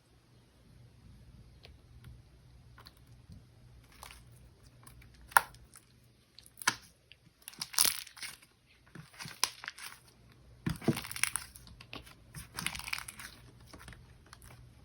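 Slime being handled, squished and poked, making irregular crackling and clicking sounds, with a few louder bursts.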